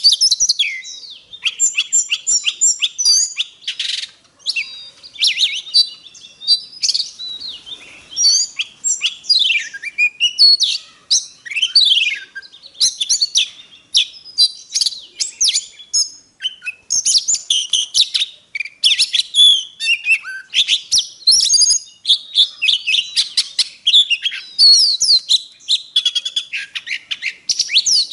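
Oriental magpie-robin singing a long, varied song of quick whistles, chirps and rising and falling notes, broken by a few short pauses.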